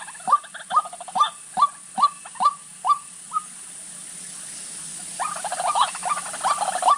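White-breasted waterhen calling: a repeated hooked note, about two and a half a second, that stops after about three and a half seconds. A denser run of overlapping calls starts about five seconds in.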